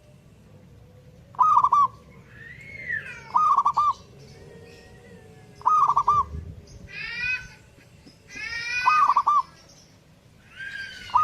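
Zebra dove (perkutut) cooing in short, repeated phrases, four times. Between the phrases come higher, downward-sliding calls from another bird.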